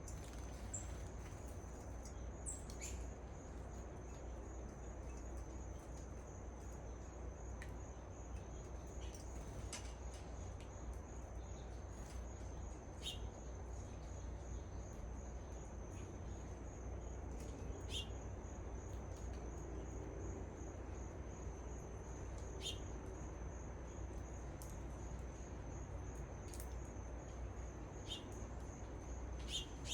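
Short bird chirps every few seconds, over a steady, high-pitched, pulsing insect trill and a low background rumble.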